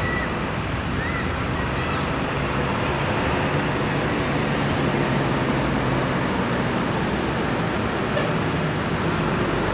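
Large bus diesel engines running with a steady low drone, mixed with surrounding traffic noise.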